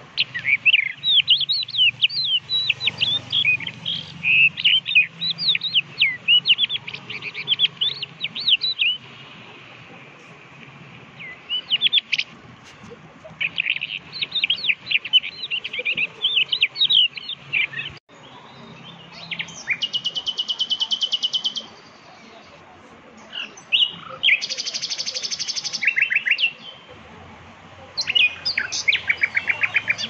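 Songbirds chirping in bouts of quick, high-pitched chirps, broken in the second half by two short, rapid buzzy trills.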